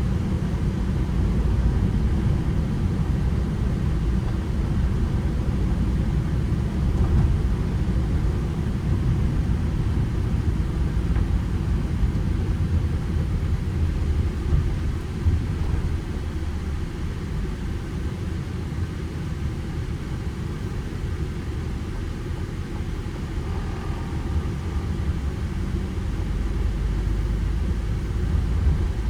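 Manual petrol Ford Transit Connect van driving: a steady low engine and road rumble, slightly quieter through the middle and building again near the end.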